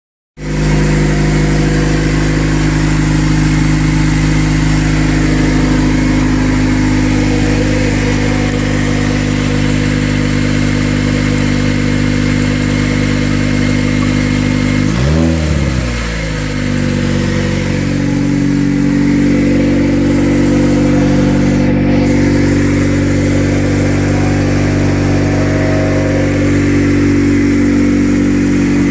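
Honda D16Y8 1.6-litre four-cylinder engine idling on its first start-up after a turbo kit install. About halfway through the revs sag sharply, nearly stalling, then pick back up and settle into a steady idle again.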